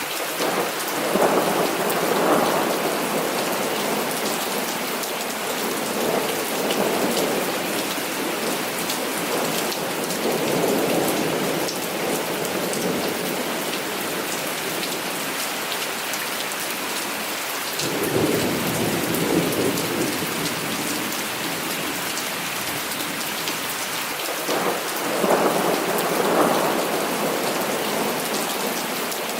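Heavy rain falling steadily, with thunder rolling in repeatedly as swelling rumbles. One rumble starts abruptly about two-thirds of the way through, and another loud one comes near the end.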